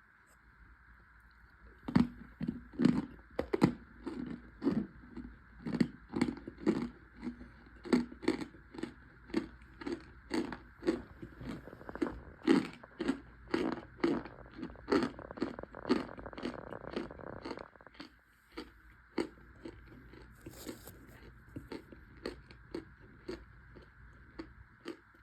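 Close-up chewing of crunchy chunks of toasted cornstarch. It is quiet for about two seconds, then comes a steady run of crisp crunches about two a second. After about eighteen seconds the crunches thin out and soften.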